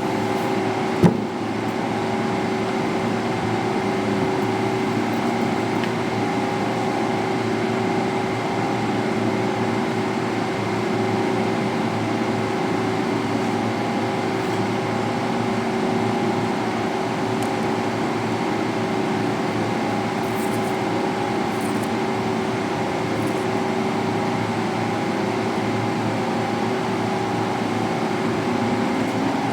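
Makute electric pressure washer running steadily, a constant motor hum with a few held tones, and a sharp click about a second in.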